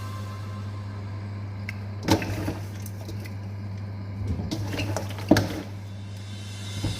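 Two sharp knocks, about three seconds apart, with light clattering around them, over a steady low hum; the second knock is the louder.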